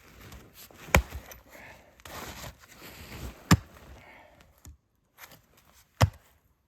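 Gränsfors Bruks Small Forest axe chopping wood: three sharp blows about two and a half seconds apart, with quieter rustling between them.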